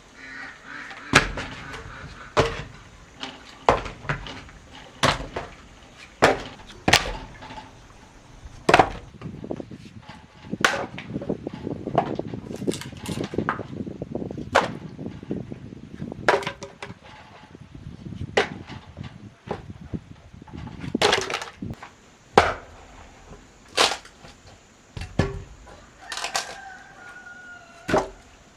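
An axe chopping wood: sharp, loud knocks, roughly one every second or so, a little sparser through the middle.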